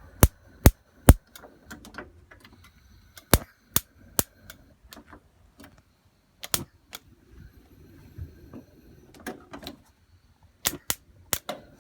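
Spark igniter on a four-ring gas hob clicking repeatedly: irregular runs of sharp clicks with short pauses between them.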